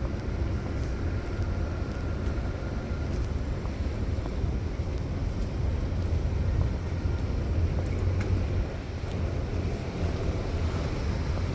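Steady low rumble of city street traffic, with a faint thin high tone in the first few seconds.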